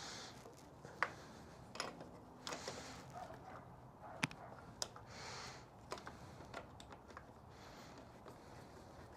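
Scattered light clicks and taps of hand tools and small parts being handled, with a few short rustling hisses in between.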